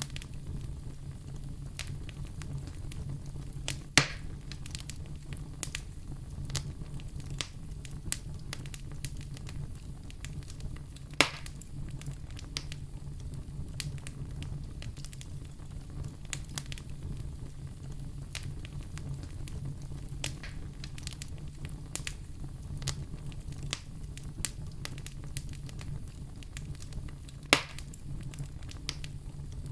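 Wood fire crackling in a fireplace: a steady low rumble under many small crackles, with three sharp, louder pops, about four seconds in, about eleven seconds in and near the end.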